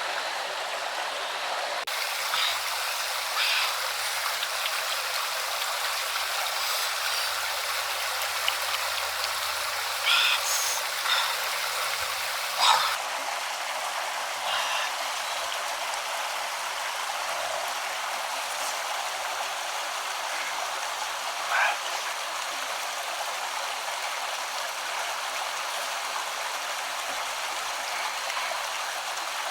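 Steady rush of flowing stream water, with a few brief sharp sounds over it, most of them between about 10 and 13 seconds in.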